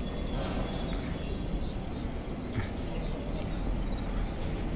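Small birds chirping again and again, short high calls, over a steady low background rumble.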